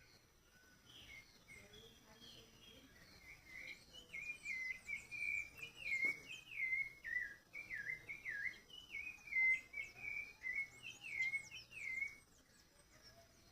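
A songbird singing a long, varied song of quick rising and falling notes, louder from about four seconds in, stopping shortly before the end.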